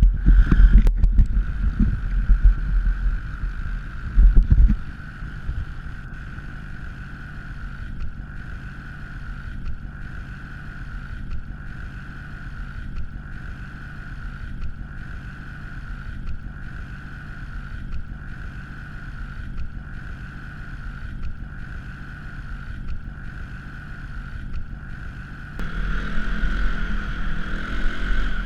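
A 230cc dirt bike engine running steadily. Heavy low wind rumble on the microphone dominates the first few seconds and returns near the end; in between the sound is quieter and even.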